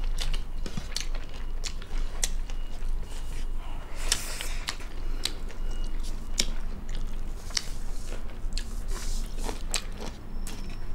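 Eating sounds: chewing and biting, with many irregular sharp clicks and smacks, as rice and fried chicken gizzard are eaten by hand.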